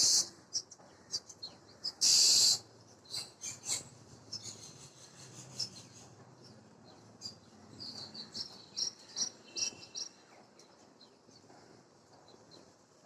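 Black drongos calling: two loud, harsh rasping calls, one at the start and one about two seconds in, followed by a run of short high chirps and twittering notes.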